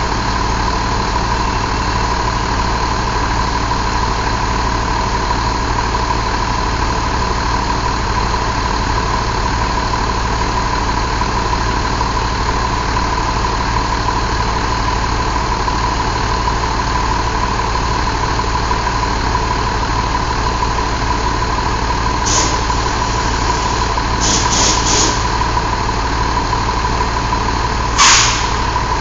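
Mercedes MBE926 inline-six diesel engine running steadily, with a few short hisses of air in the last third, the loudest near the end.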